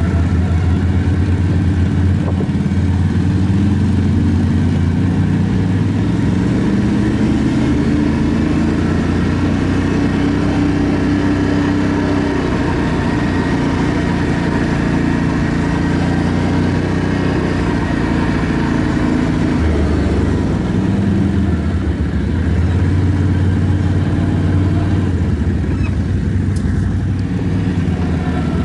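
ATV engine running on a trail ride, its pitch rising and falling as the throttle changes.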